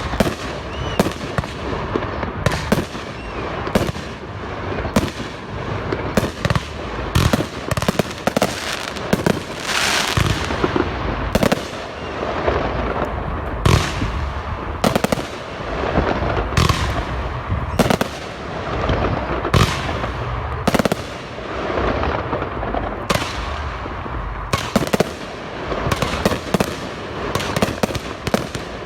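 Fireworks display going off: a rapid, uneven string of sharp bangs and reports, several a second, over continuous crackling.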